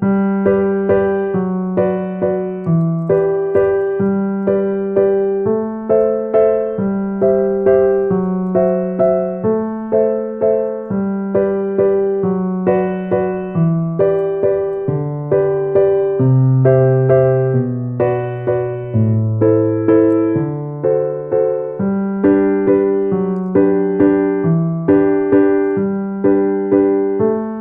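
Background music: a piano or electric piano playing a gentle pattern of struck notes, about two a second, over a slowly moving bass line.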